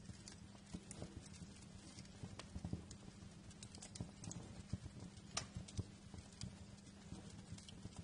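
Wood fire crackling in a fireplace: irregular sharp pops and snaps over a low, steady rumble of the flames, with a louder pop about five seconds in.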